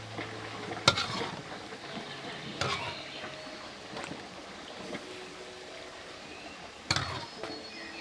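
Three sharp knocks or clatters, about a second in, a couple of seconds later and near the end, over a faint rustling or watery background.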